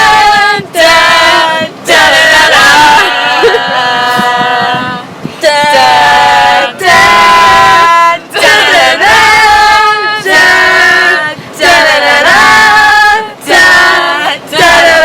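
Voices singing a song, in loud held phrases of one to two seconds with short breaks between them.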